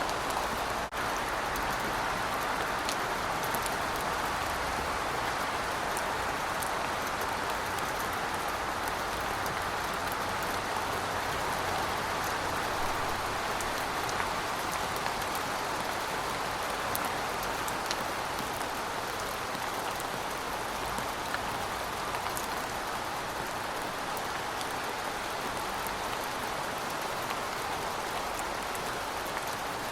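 Steady rain falling on pavement: an even hiss with many scattered sharp drip ticks.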